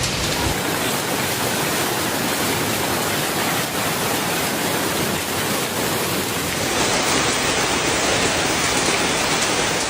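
Heavy rain in a storm, a steady loud hiss with no lull, growing a little louder about two-thirds of the way through.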